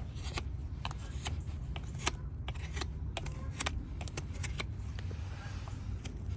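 Farrier's hoof-trimming tools working on a hoof: many sharp, irregular clicks and snips over a steady low hum.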